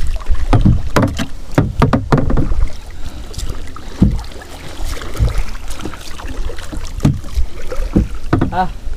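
Kayak paddling: paddle blades splashing through the water, with irregular sharp knocks of paddle on the boat, over a low rumble.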